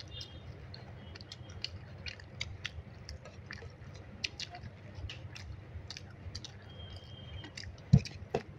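A person eating gram-flour dumpling curry close to the microphone: chewing with many small, scattered mouth clicks and smacks. Near the end there is a short low thump, the loudest sound.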